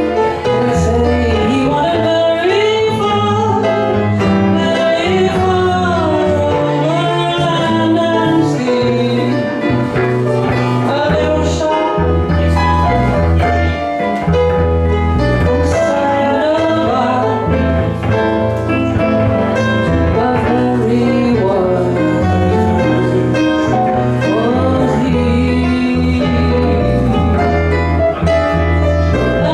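A small live band playing a song, with a singing voice, guitar and a bass line moving in steps underneath.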